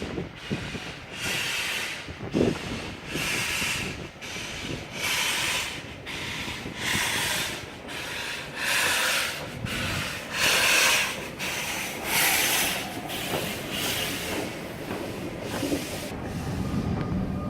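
Steam locomotive working slowly, its exhaust chuffing in even beats about one a second.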